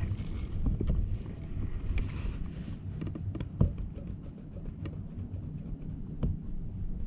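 Low rumbling wind noise on the microphone with a few scattered light knocks and clicks.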